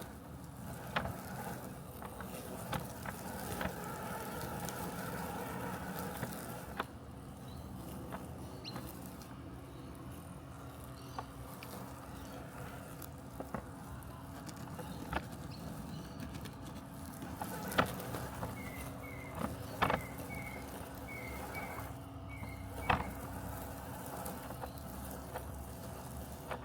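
Robotic lawn mower running with a steady mechanical hum, with a few sharp clicks scattered through it. A short run of high chirps is heard about two thirds of the way in.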